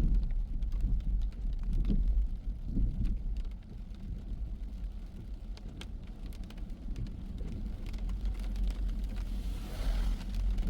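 Low, steady road rumble of a car driving in the rain, with faint scattered ticks of raindrops. A brief rushing hiss swells and fades near the end.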